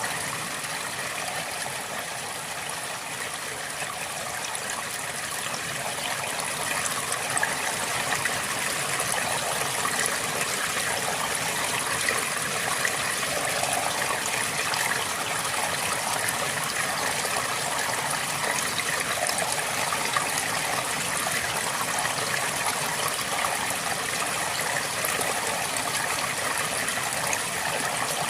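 A river flowing steadily: a continuous rush of water with a fine trickling and splashing texture.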